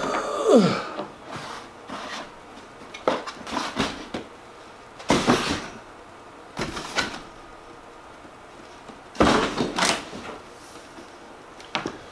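Plastic parts of a new Keurig coffee maker being handled: scattered clicks and knocks, a few seconds apart, as pieces are taken off, fitted and set down.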